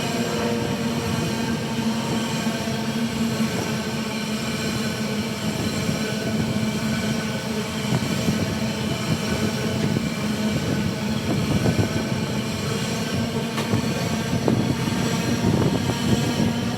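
Freight train passing close by: a steady, loud rumble of wheels on rail with several held tones ringing above it.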